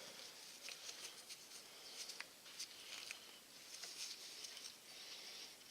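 Faint, scattered small clicks and light rustling from a small metal-and-plastic air valve and its parts being handled during reassembly, over low hiss.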